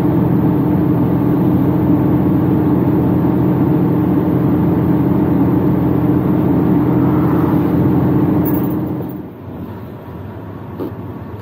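Semi-truck diesel engine pulling under load up a steep grade in a low gear, a steady drone heard from inside the cab. About nine seconds in it drops away to a much quieter hum.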